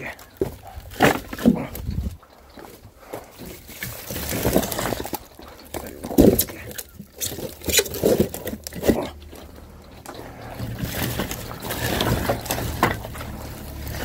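Firewood being handled and stacked for loading: scattered wooden knocks and thuds with some indistinct voices, and a low engine hum that comes up near the end.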